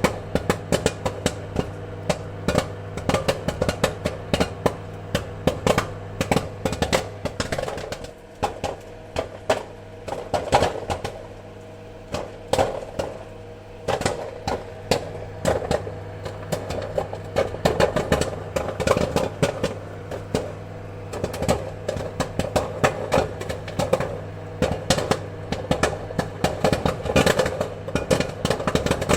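Popcorn kernels popping in quick, irregular pops over a steady low hum, thinning out briefly about eight and twelve seconds in.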